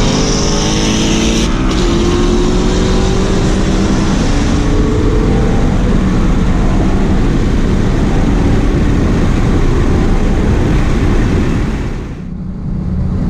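V8 car engine accelerating hard at full throttle, its pitch rising over the first few seconds, then running on under steady loud wind and road noise. The sound dips briefly near the end.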